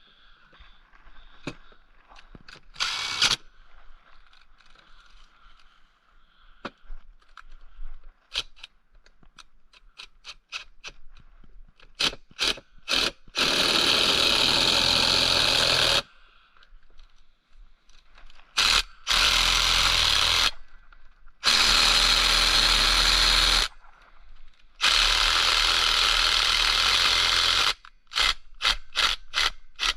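A handheld power tool running in four bursts of two to three seconds each, after a string of clicks and light knocks of parts and tools being handled.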